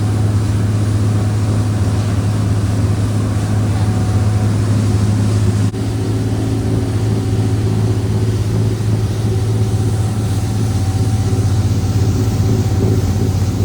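Twin Cummins 8.3 diesel engines of a Sea Ray 44 Sundancer cruiser running steadily at planing speed: a deep, even hum with rushing wind and water. There is a momentary dip in level about six seconds in.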